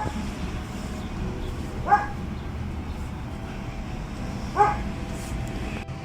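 A dog barking three times, single short barks about two seconds apart, over a steady low rumble.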